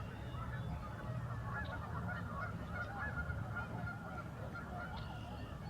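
Large flock of migrating geese calling together in a dense, continuous chorus of overlapping honks, over a steady low rumble.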